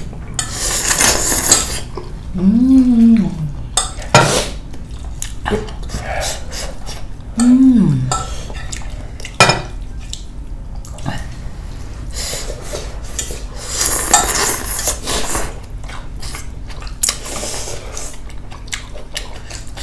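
Close-up eating sounds: a spoon and chopsticks clinking repeatedly against a bowl, with noisy bursts of slurping hot hotpot broth and food. Two short hummed 'mm' sounds rise and fall in pitch, about two and seven seconds in.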